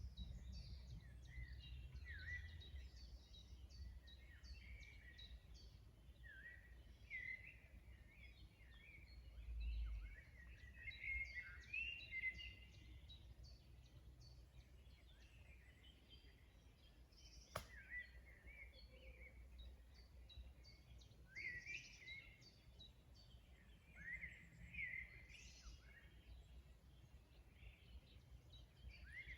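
Faint mixed birdsong: several birds giving quick chirps and short down-slurred whistled notes, over a steady low rumble. A single sharp click about two-thirds of the way through.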